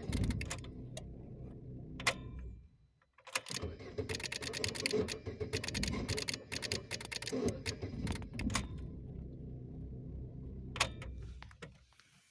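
Lada Granta being started with the key: sharp repeated clicks from the starter relay over a steady low engine sound, in two spells with a short break about three seconds in, fading out near the end. The relay clicking several times and the hard starting are the fault being shown, persisting even after the starter was repaired.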